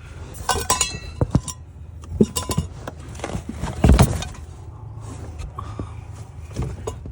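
Camping gear being handled and moved about: a string of clinks and knocks, with a heavier thump about four seconds in.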